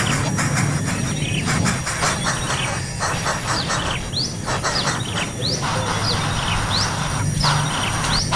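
Small birds chirping: many quick, high, rising and falling chirps in rapid succession. Under them runs a steady high insect drone and a low steady rumble.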